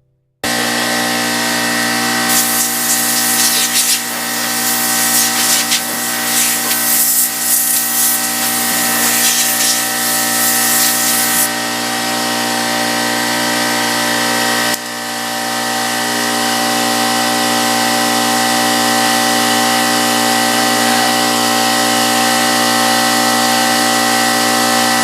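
An electric power tool running steadily, its motor hum overlaid by an uneven rasping rub in the first half. It starts suddenly just after the start and dips briefly about fifteen seconds in.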